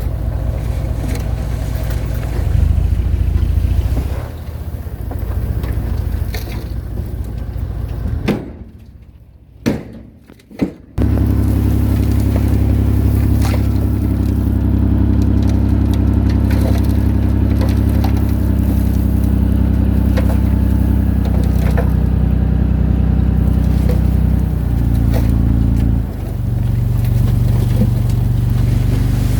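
Diesel engine of heavy earthmoving machinery running steadily. It almost drops out about a third of the way in, then comes back as a strong, even hum. Its note shifts to a different pitch pattern a few seconds before the end.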